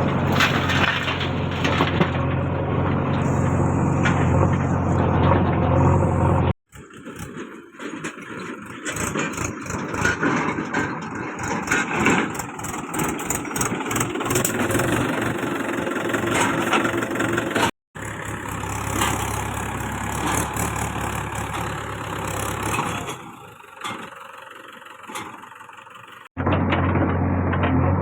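Diesel engine of a JCB 3DX backhoe loader running steadily with a low, even note. The sound breaks off abruptly three times where clips are cut together, and the middle stretch is rougher with less of the low hum.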